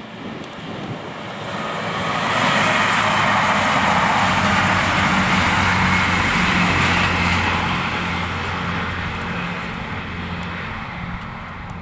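A Networker Turbo diesel multiple unit passing: engine hum and wheels-on-rail noise swell over about two seconds, hold steady for several seconds, then fade slowly as it runs away.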